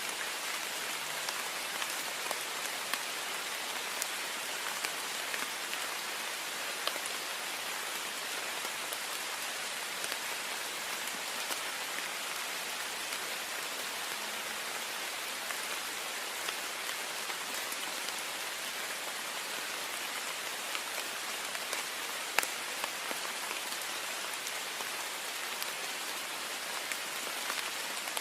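Heavy rain on a window: a steady hiss of rainfall with scattered sharp drop ticks, one louder tick about two-thirds of the way through.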